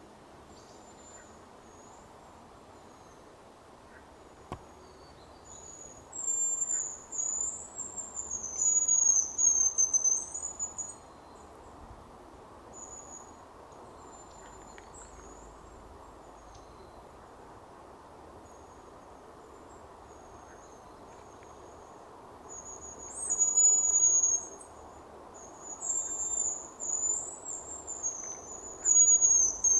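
Hazel grouse whistling: thin, very high-pitched whistled phrases in two bouts, about six seconds in and again from about 22 seconds, over a steady background hiss.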